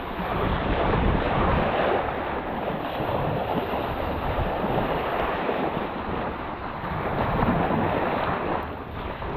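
Strong wind buffeting the microphone over rushing water and surf, the noise swelling and easing without a break.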